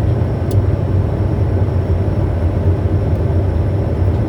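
Steady in-flight noise of a Bombardier Challenger 350 business jet on approach: an even drone of airflow and engines with a strong low hum.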